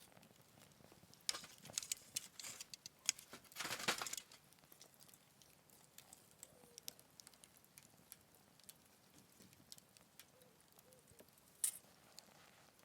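Wood fire crackling in a small folding fire pit: scattered snaps and pops, a flurry of louder crackles with a brief hiss about four seconds in, and one sharp pop near the end.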